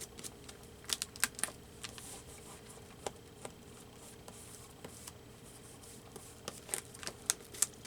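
Scattered light clicks and taps from hands working at a paper collage, picking at glue stuck on the paper, in small clusters about a second in and again near the end.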